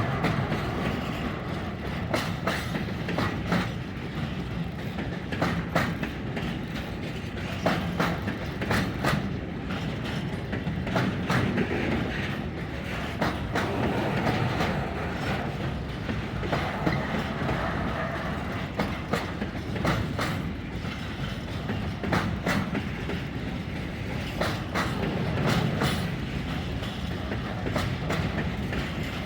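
Intermodal freight train rolling past at speed, with a steady rumble and repeated clattering as the wagon wheels cross rail joints.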